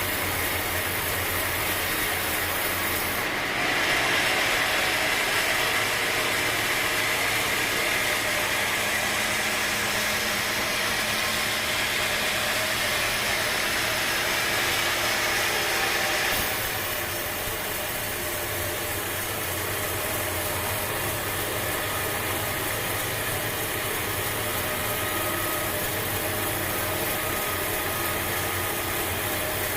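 Sawmill machinery running steadily. About three seconds in a louder, higher-pitched noise joins it and holds for some thirteen seconds, then cuts off and the steady running continues.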